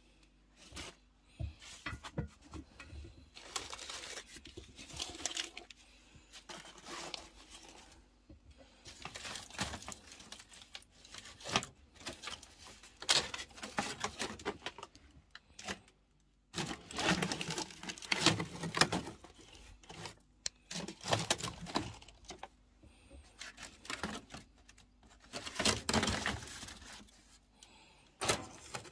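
Boxes being torn up and crumpled by hand: irregular rasping tearing and crinkling, coming in bursts with short pauses between them.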